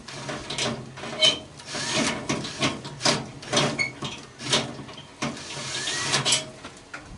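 Irregular metallic knocks, clicks and scraping as tools and parts of an old microwave oven are worked loose by hand, in uneven strokes roughly every half second.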